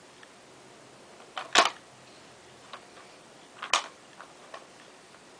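Toys being handled: two sharp knocks about two seconds apart, with a few lighter clicks and taps around them.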